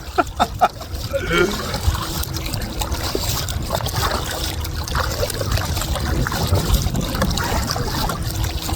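Kayak paddle strokes through the water, with water trickling and dripping off the paddle blades, over a steady low rumble.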